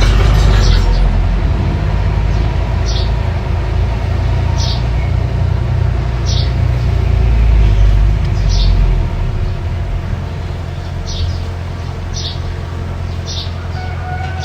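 Mini bulldozer engine running with a steady low rumble, swelling a few seconds before the middle and easing off after. A bird chirps briefly every second or two over it.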